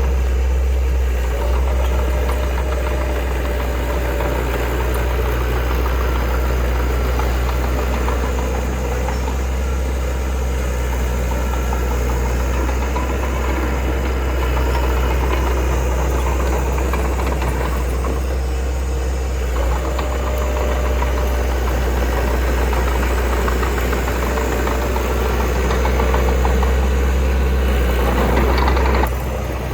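Diesel engine of heavy earthmoving equipment running steadily with a deep low rumble, easing off slightly near the end.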